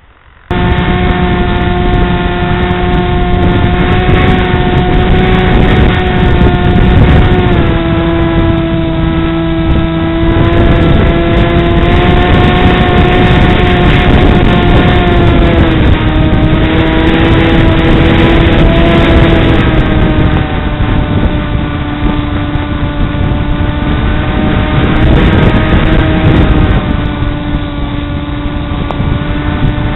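Model airplane's electric motor and propeller running in flight: a loud, steady hum with a whine above it. Its pitch drops in steps a few times as the throttle changes.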